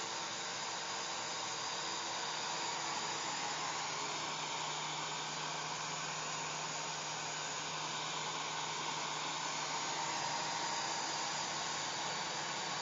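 Hair dryer running steadily: an even blowing hiss with a faint low hum from its motor, unchanging throughout.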